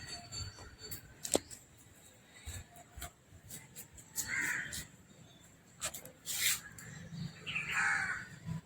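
A crow cawing twice, harsh calls about four and seven and a half seconds in, with a few sharp clicks and knocks in between.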